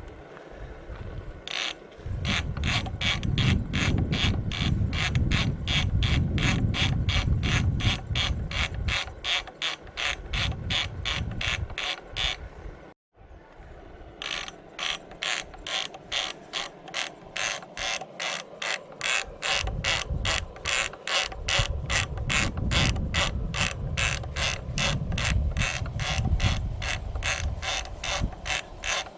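Two-stroke McDonald PB diesel engine running slowly, a sharp, even knock about three times a second over a low rumble. The sound drops out briefly partway through, then carries on.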